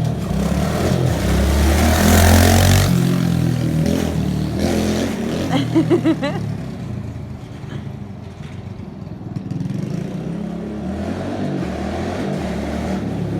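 A stock Kawasaki KLX110 pit bike's small four-stroke single-cylinder engine running and revving as the warmed-up bike is ridden. It surges loudest about two seconds in, revs in a few short bursts around six seconds, eases off briefly, then runs steadily again.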